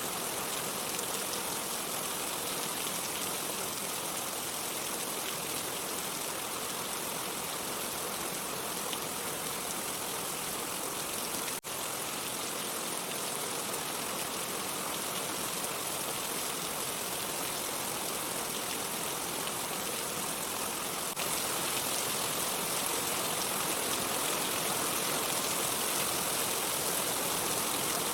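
Steady rain, a continuous even hiss with no thunder. There is a brief dropout about eleven and a half seconds in, and the rain gets a little louder about 21 seconds in.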